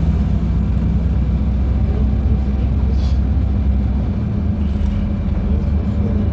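LiAZ-5292.71 natural-gas city bus under way, heard from inside: steady low engine and road rumble, with a brief click about three seconds in.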